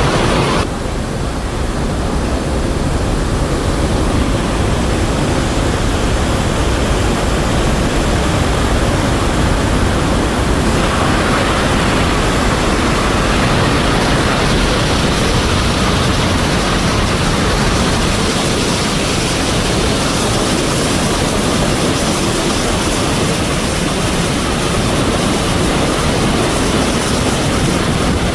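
Iguazu Falls: a huge volume of falling water making a loud, steady rush. The sound changes abruptly about a second in and again well before the middle, thinning in the treble and then growing brighter.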